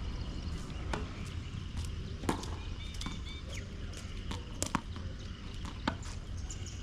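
Tennis ball being struck by rackets and bouncing on the court during a point: sharp single knocks at uneven intervals, a second or so apart, with two close together about two-thirds of the way in, over a steady low rumble.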